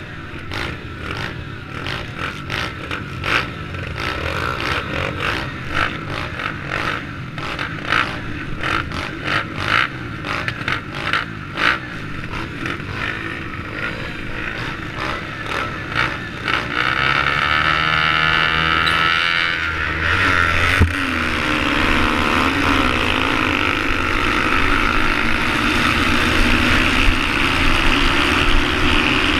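SSR110 pit bike's small single-cylinder four-stroke engine running through a dirt race, with choppy rattling and knocking over the first half. About halfway through, the engine note steadies and gets louder, climbing in pitch as it revs up.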